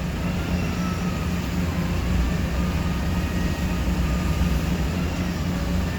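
Large construction forklift's engine running steadily, a low even drone heard from the operator's seat.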